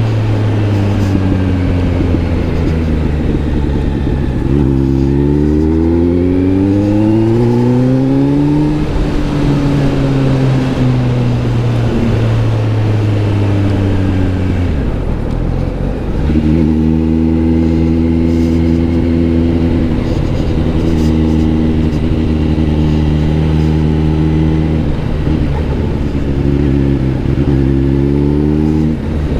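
Kawasaki Z900 SE inline-four engine running through an SC-Project S1 exhaust while being ridden. Its note climbs steeply about five seconds in, eases off slowly, dips briefly around the middle, holds steady for a long stretch, then climbs again near the end.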